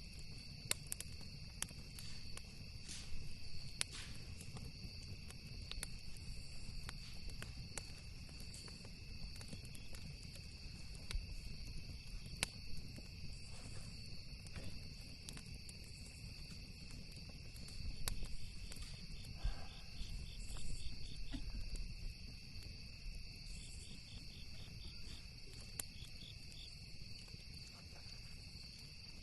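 Campfire crackling with scattered sharp pops over a steady chorus of crickets, whose chirping pulses faster near the end, and a low rumble underneath.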